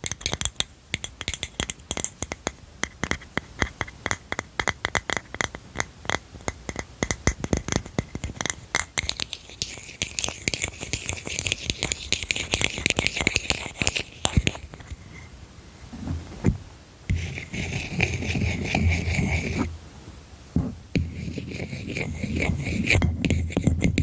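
Quick fingernail tapping on a hard object, many taps a second, turning about halfway through into scratching and rubbing across its surface in two longer strokes.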